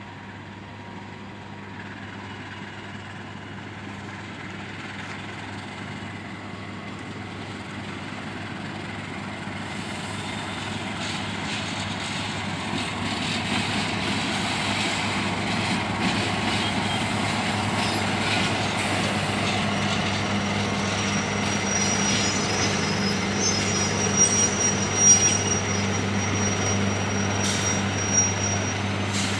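Diesel-electric locomotive hauling a passenger train past, its engine drone growing louder as it approaches. From about a third of the way in, the wheels clatter over rail joints and points, with a thin high wheel squeal and a few sharp clanks in the second half.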